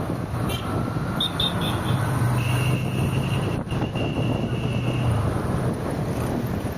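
Road and traffic noise from a car driving through traffic, with a low engine hum through the middle, a few short high beeps a little after a second in, and a thin high tone held for about three seconds.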